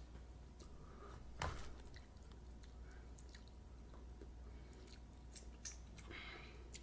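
Faint chewing of a mouthful of corn kernels, with scattered small clicks and one short knock about a second and a half in.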